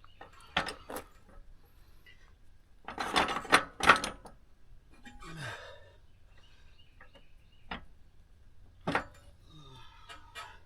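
Scattered metallic clanks and knocks of metal parts being handled on a bandsaw sawmill, the loudest a quick cluster about three to four seconds in.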